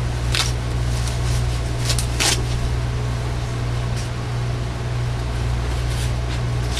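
Steady low electrical hum, with a few brief clicks and rustles about half a second and two seconds in.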